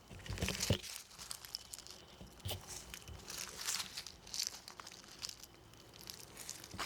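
Footsteps crunching on a path in a steady walking rhythm, about one step every 0.7 seconds.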